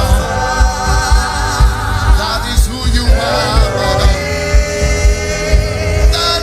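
Live gospel worship music: singing over a band with a steady kick drum, about two beats a second.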